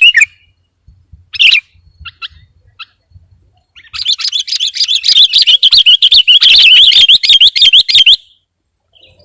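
Sooty-headed bulbul (kutilang) singing: a few short, separate chirps, then from about four seconds in a loud, fast, continuous high warble of rapidly repeated notes lasting about four seconds that stops abruptly.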